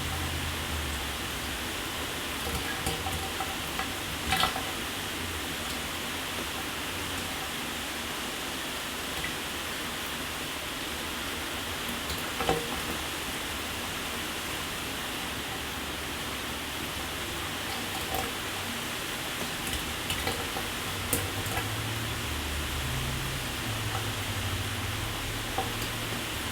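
Shower water spraying steadily onto a hard surface, a constant hiss with scattered drips and splats, the largest about four seconds in and again about twelve seconds in.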